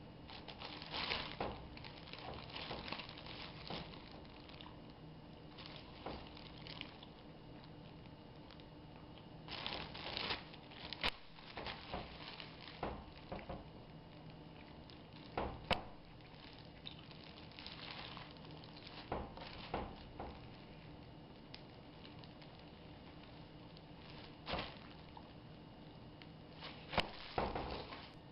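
Plastic food packaging crinkling and rustling in short bursts as thin-sliced deli ham is handled for a sandwich, with a few sharp clicks and a faint steady hum underneath.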